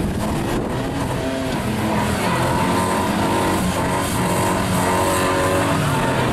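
Car engine revving hard, its note rising and falling over and over, with engine noise throughout.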